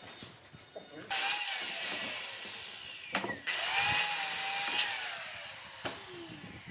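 A handheld power tool is switched on in two short bursts, about a second in and again a couple of seconds later, and winds down after each.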